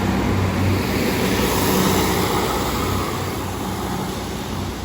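Diesel multiple-unit train, a Class 150 coupled to a Class 156, pulling away: a steady diesel engine drone with wheel and rail noise, slowly fading in the last couple of seconds.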